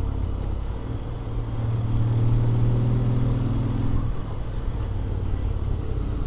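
Honda X-ADV 750's parallel-twin engine running while riding, through its stock exhaust with an Akrapovic manifold. The engine note swells from about a second and a half in, then eases off about four seconds in.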